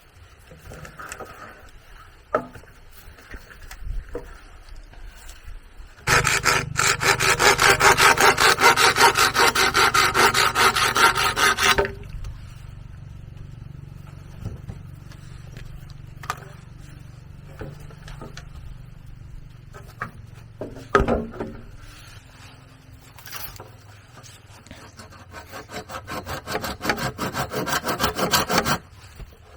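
Hand saw cutting bamboo with fast, even back-and-forth strokes: a loud bout of sawing about six seconds in that stops after some six seconds, then a second bout that builds up near the end and stops abruptly. Quieter scraping and a few knocks come in between.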